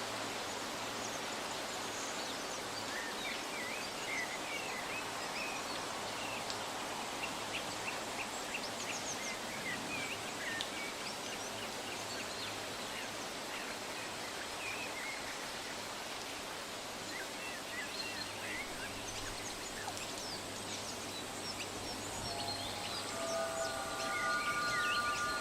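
Forest ambience: many small birds chirping and calling in short scattered notes over a steady background hiss. Near the end a few steady held tones at several pitches come in, like a chime or singing bowl.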